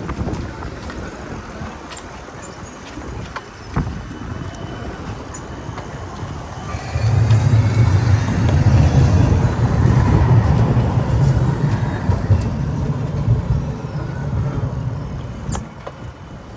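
Street traffic: a motor vehicle's low engine rumble swells about seven seconds in, holds for several seconds, then fades.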